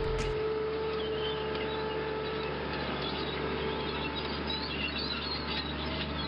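Small birds chirping over a steady low hum and even background hiss.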